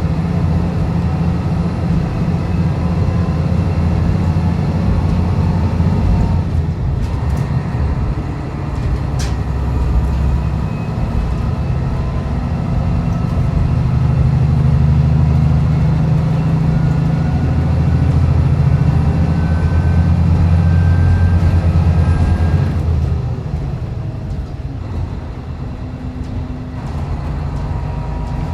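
Diesel railcar running, heard from inside the cabin: a steady low engine drone with wheel and track noise and an occasional click. The engine pulls harder for several seconds in the middle, then eases off near the end as the railcar drifts on.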